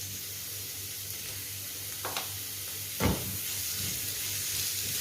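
Sliced onions sizzling in hot oil in a frying pan: a steady high hiss, with a light tap about two seconds in and a louder knock about three seconds in.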